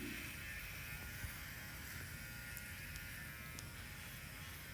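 Steady low buzzing hum of room tone.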